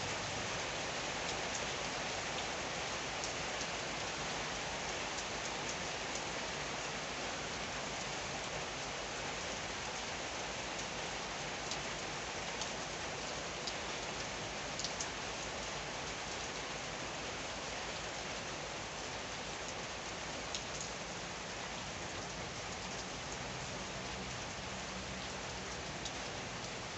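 Steady rain falling, an even hiss, with a few sharp taps of drops landing close by scattered through it.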